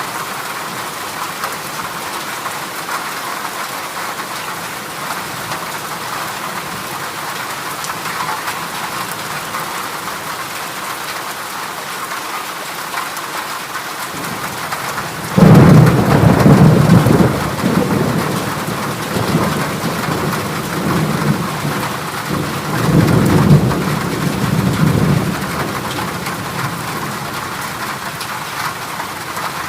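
Steady heavy rain drumming on a corrugated zinc roof. About halfway through, a loud clap of thunder breaks in suddenly and rumbles for a few seconds; a second, weaker rumble follows later.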